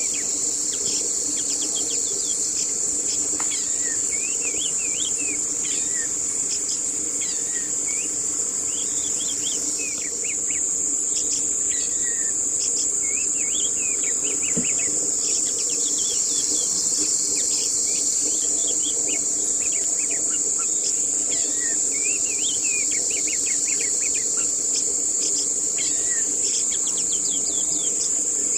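Steady high-pitched insect buzz, with many small birds chirping over it throughout in short, quick notes.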